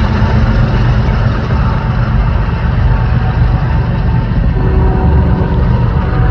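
Freight train passing at speed, with the steady noise of wheels rolling on the rails and a low tone running underneath.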